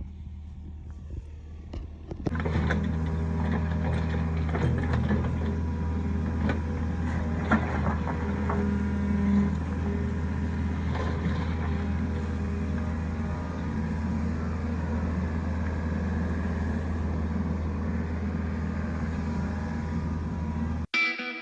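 Kobelco SK55 mini excavator's diesel engine running steadily while it digs the trench, with scattered knocks and scrapes of the bucket in the dirt. The engine picks up and gets louder about two seconds in. Guitar music cuts in at the very end.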